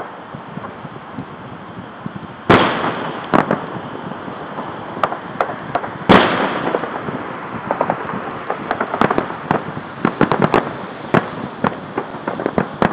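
Aerial fireworks salute: two loud shell bursts about two and a half and six seconds in, each trailing off over about a second, followed by a quick run of sharp pops and crackles.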